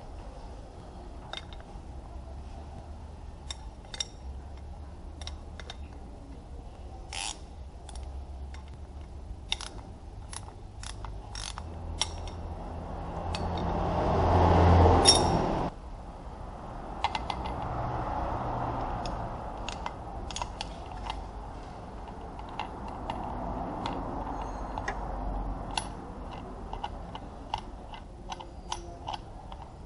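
Scattered metallic clicks and clinks of hand tools and parts being handled. A rushing noise builds for a couple of seconds and cuts off suddenly about halfway through, with two softer swells after it.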